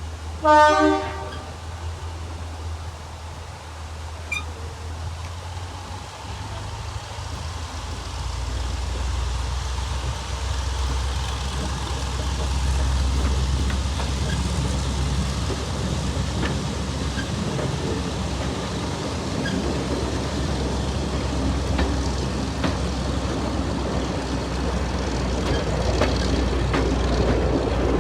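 A diesel locomotive's horn sounds one short blast about half a second in. After it comes the steady low drone of a diesel locomotive and the train's running noise, growing louder from about a third of the way through.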